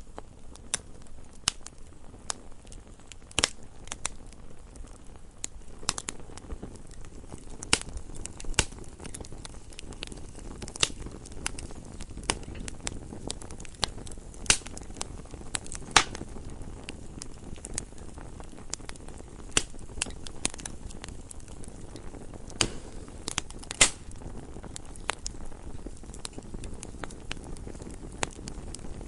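Wood fire burning steadily over a low, soft rumble, with irregular sharp crackles and an occasional louder pop.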